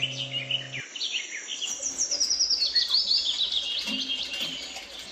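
Birds chirping: a busy run of quick, high chirps, each sliding down in pitch, many overlapping. Background music stops about a second in.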